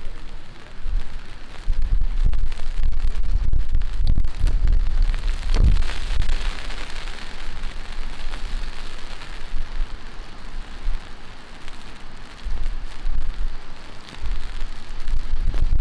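Heavy rain falling on surfaces, a steady hiss that swells for a few seconds near the middle, with low rumbling gusts that come and go.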